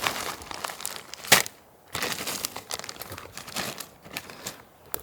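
Crinkling and rustling of a plastic bag of dog food being handled while food is put in a bowl, with one sharp clack about a second and a half in.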